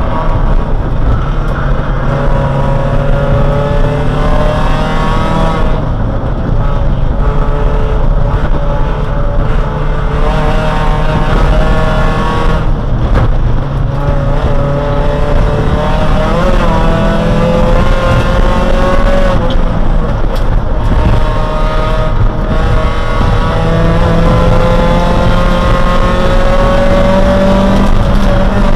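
Neon race car's four-cylinder engine heard from inside the cabin, running hard at racing speed. Its pitch climbs steadily and then drops several times as the driver shifts and lifts for corners.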